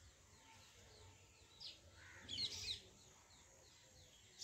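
Birds chirping faintly, with a livelier burst of chirps about halfway through, and a brief click at the very end.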